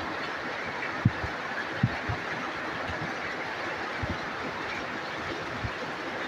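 Heavy rain falling steadily, an even hiss, with a few short dull thuds about one, two and four seconds in.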